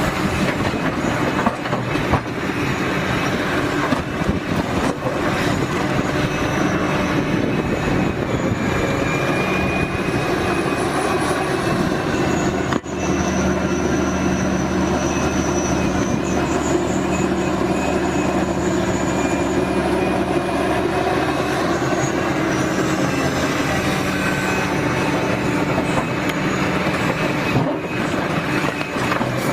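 Liebherr excavator working: its diesel engine runs steadily under load, with high squealing tones that come and go and occasional metallic knocks.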